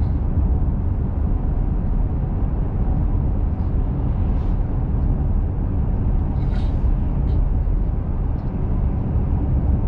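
Steady road and engine noise of a small truck cruising on a country road, heard from inside the cab as a constant low rumble, with a couple of faint ticks or rattles about halfway through.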